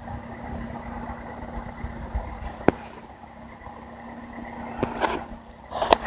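Steady low mechanical hum and rumble, like an idling engine, with two faint sharp clicks and a brief rustle of handling noise near the end.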